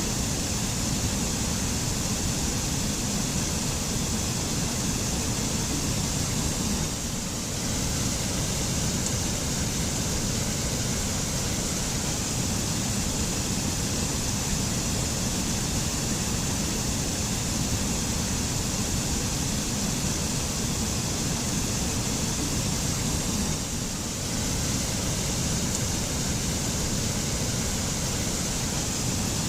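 Mountain waterfall in a forest, water falling and splashing in a steady, dense rush.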